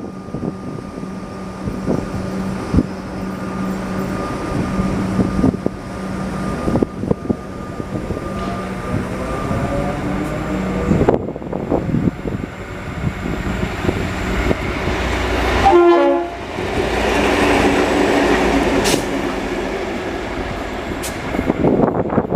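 A train running past, its wheels clicking over rail joints under a steady engine hum, with a short horn blast about three-quarters of the way through.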